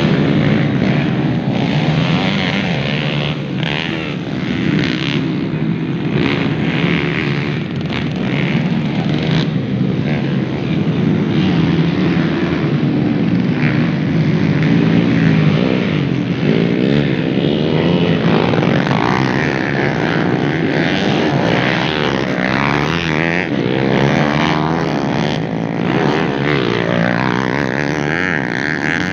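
Several motocross bikes racing, their engines revving up and down over one another continuously.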